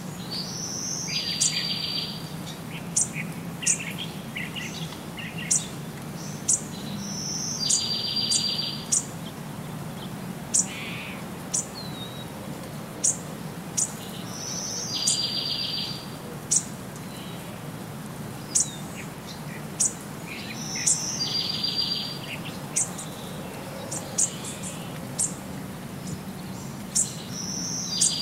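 Birds chirping and singing: sharp single chirps, and a trilled phrase about a second long that comes back about every seven seconds, over a steady low hum.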